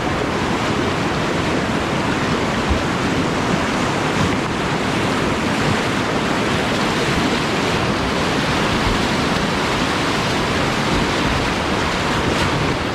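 Steady rush of river whitewater churning through a rapid.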